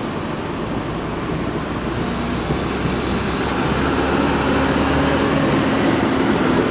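Diesel bus engine running close by, getting louder, with a steady low drone that comes in about halfway through.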